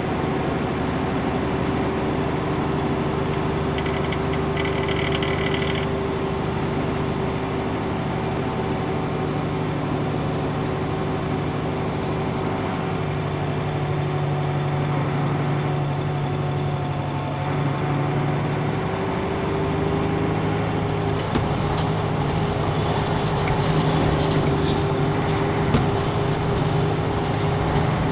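Nissan Diesel UA (KL-UA452MAN) bus with its PF6HTA diesel engine running steadily under way, with a constant whine whose pitch shifts briefly about halfway through. Scattered rattles and clicks over the last few seconds.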